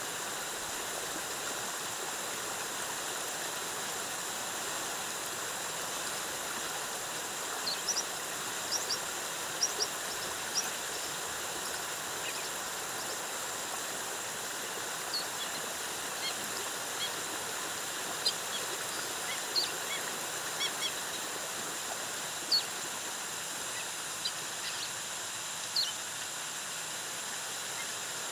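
Waterfall rushing steadily, with short, high bird chirps scattered over it, several coming in quick clusters.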